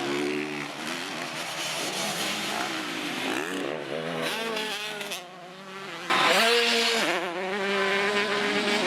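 Motocross bike engines revving up and down, pitch rising and falling as the riders work the throttle. About six seconds in, a bike's engine comes in suddenly much louder and stays loud.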